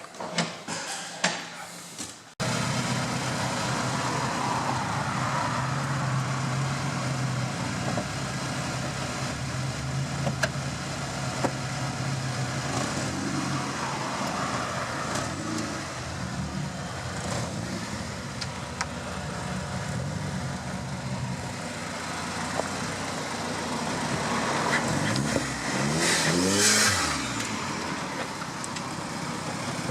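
Car engines running, with a steady low engine note throughout; near the end an engine note rises and then falls away. The opening two seconds hold a few knocks before the sound cuts in suddenly.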